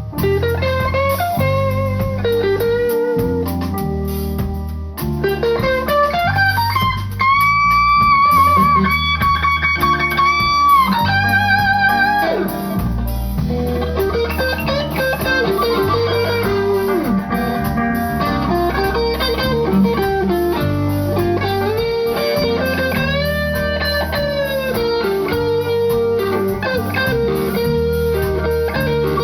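Live blues band playing, an electric guitar lead over a bass line. About seven seconds in, a guitar note slides up and is held with vibrato for about four seconds.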